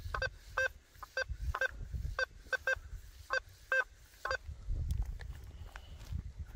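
Quest V80 metal detector giving short, repeated pitched beeps, about a dozen in the first four seconds, as its coil is swept over buried test targets; the beeps then stop. A low rumble runs underneath.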